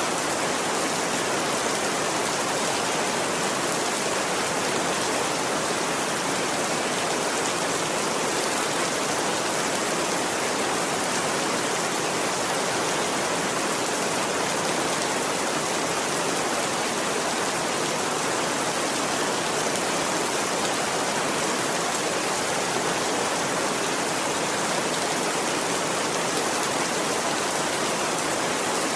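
Steady rain, an even unbroken hiss that holds the same level throughout.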